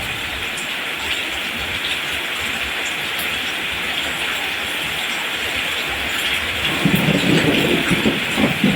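Steady rain falling on plants; about seven seconds in it turns louder and deeper, with uneven lower sounds joining the hiss.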